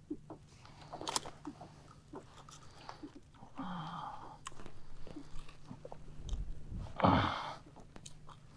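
Handling noises on a kayak: scattered sharp clicks and knocks, a short rustle about four seconds in and a louder thump-and-scrape about seven seconds in.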